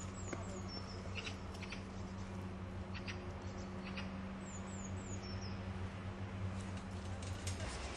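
A small bird calling: two short runs of high, falling chirps about four seconds apart, with a few faint clicks between them. A steady low hum runs underneath.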